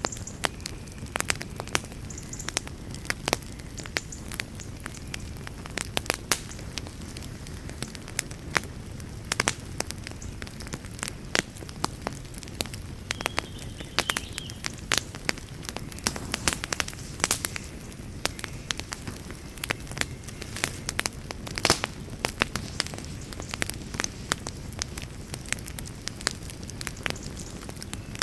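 Wood campfire crackling, with irregular sharp pops and snaps, some louder than the rest, over a steady low rushing.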